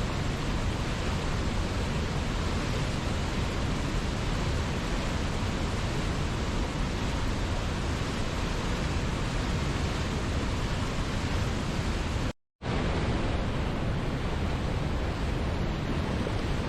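Steady rush of a waterfall, an even wash of falling water with no changes. It cuts out completely for a split second about twelve seconds in, then resumes as before.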